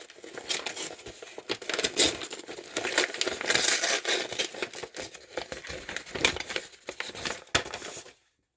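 Mail packaging being torn open and crinkled by hand: irregular crackling, rustling and ripping. It cuts off to silence near the end.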